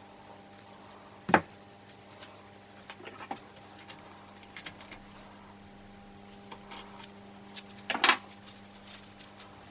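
Hand tools and metal engine parts knocking and clinking during disassembly of a Honda CB450 engine. There are two sharp knocks, one about a second in and one near the end, with a run of small metallic clicks and ticks in between, over a steady low hum.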